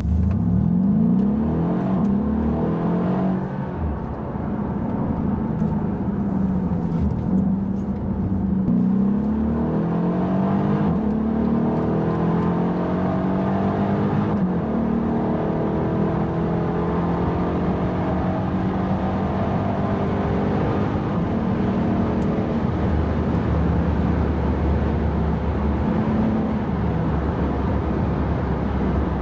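Mercedes-AMG E63's twin-turbo V8 heard from inside the cabin under acceleration. Its pitch climbs and drops several times in the first dozen seconds as the gearbox shifts, then settles into a long steady drone that rises slowly in pitch.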